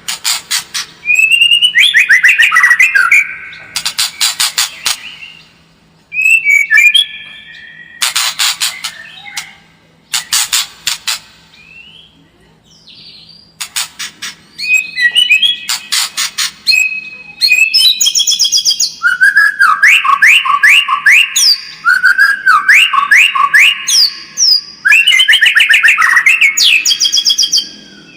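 White-rumped shama singing loudly: fast rattling bursts alternate with clear whistled phrases and runs of quick repeated notes, with short pauses between phrases. It is the challenging kind of song played to provoke a caged shama into fighting form.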